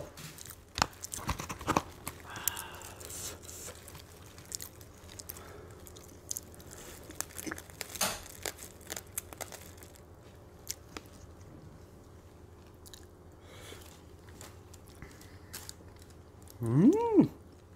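Chewing and crunching while eating seasoned raw crab: scattered sharp crackles and clicks with soft wet chewing, close to the microphone. Near the end there is a short hum that rises and falls in pitch.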